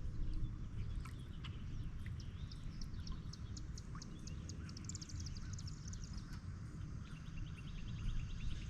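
Songbirds singing: fast runs of evenly repeated high chirps in the middle, and another trill near the end, over a steady low rumble.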